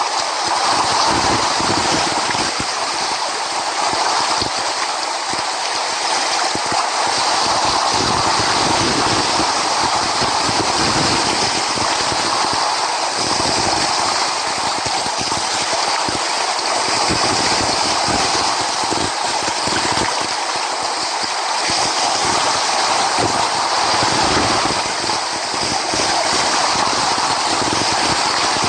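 Sea waves breaking on the shore: a steady rushing noise that swells and eases slightly, with no clear pauses.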